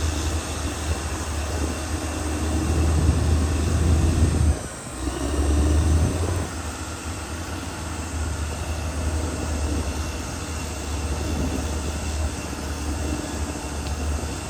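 Caterpillar D6R XL bulldozer's diesel engine running with a steady low hum. The engine swells, drops out abruptly for about half a second around five seconds in, and then runs on.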